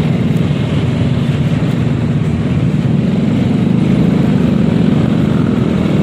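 Yamaha XMAX 300 scooter being ridden in traffic: its engine and the road noise run steadily, a little louder in the second half.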